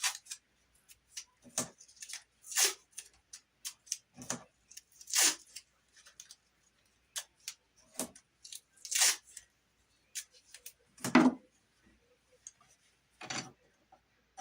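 Tape pulled off a roll and torn in a series of short rasping strips, with small knocks of handling between them; the loudest comes about eleven seconds in.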